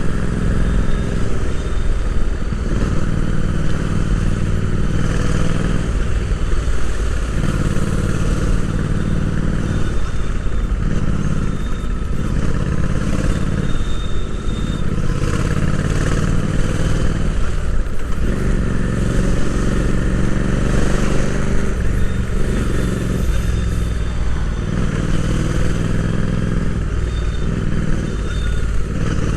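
Royal Enfield Interceptor 650's 648 cc parallel-twin engine running under way, heard from on board. The engine note breaks off and picks up again every few seconds as the rider works the throttle.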